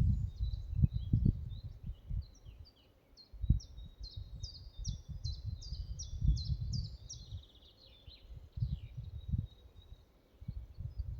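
Forest songbirds singing, with a run of quick repeated notes, each sliding sharply down in pitch, through the middle. Low, irregular rumbling gusts of wind hit the microphone throughout, strongest at the start.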